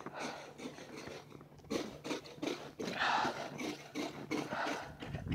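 Footsteps crunching and scraping through deep snow, a quick run of irregular crunches that grows louder and denser about two seconds in.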